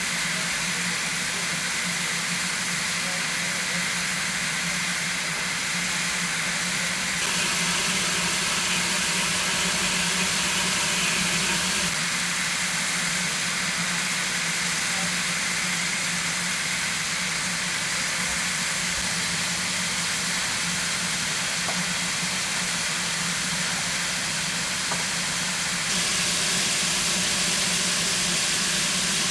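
Steam hissing steadily from 2 ft gauge Garratt steam locomotives, with a low hum under it. The hiss shifts abruptly three times, at about 7, 12 and 26 seconds in.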